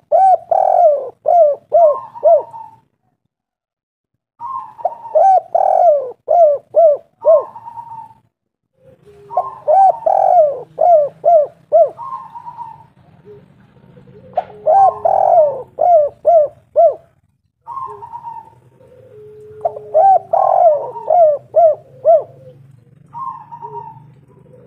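Spotted dove (tekukur) singing its coo phrase over and over, about every four to five seconds. Each phrase opens on a single note, runs into a quick series of about five falling coos and ends on a held note. From about a third of the way in, a low steady hum lies under the song, with fainter, lower-pitched calls between the phrases.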